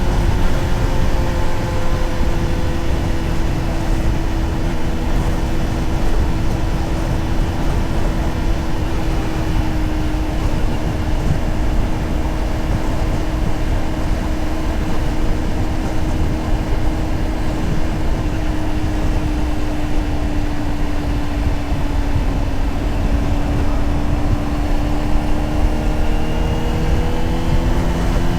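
Honda CBR600RR's inline-four engine running at steady cruising revs under heavy wind rush on the rider's microphone. The engine note sags slowly through the middle and climbs again near the end as the throttle opens.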